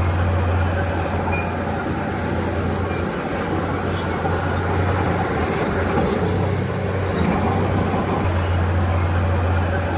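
Komatsu D31P bulldozer's diesel engine running steadily under load, with scattered faint high squeaks and clinks.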